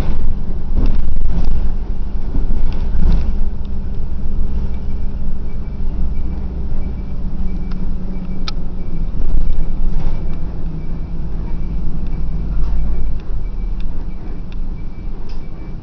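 Bus engine running with a steady low rumble from the moving bus. From about four seconds in, a faint high beep repeats about twice a second.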